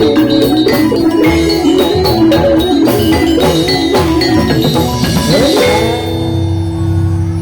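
Jathilan gamelan music: drum strokes and metal-keyed percussion under a wavering melody line. About six seconds in, the playing stops on a long held note over a low drone.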